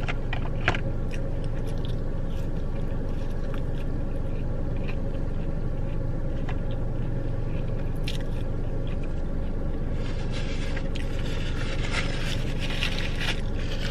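Close-up eating sounds: chewing and biting of fried chicken and fries, with scattered sharp clicks and a denser stretch of crunching and rustling near the end, over a steady low hum.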